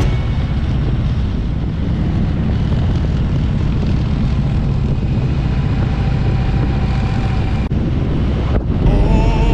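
Motorcycle riding along: a steady low engine drone under heavy wind noise on the microphone. It breaks off briefly twice near the end, and then comes back louder with a steady whine.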